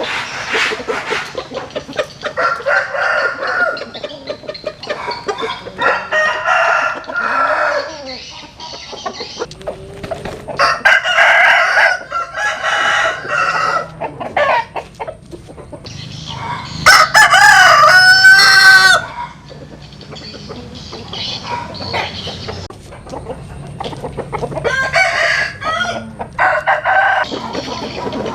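Roosters crowing, one long crow after another, about six in all; the loudest and longest comes about seventeen seconds in.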